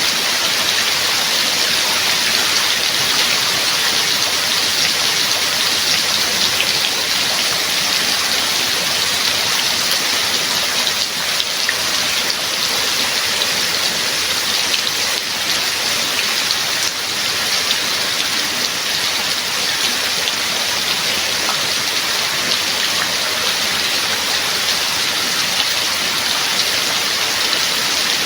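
Steady rain falling: an even hiss with the patter of individual drops.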